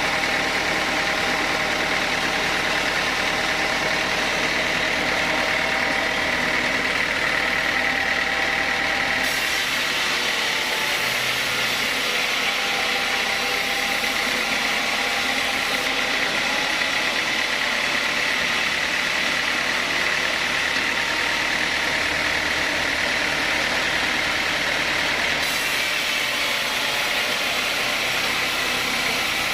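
A sawmill saw and its machinery run steadily through old teak, loud throughout. About nine seconds in the sound turns brighter and hissier, and it eases back a few seconds before the end.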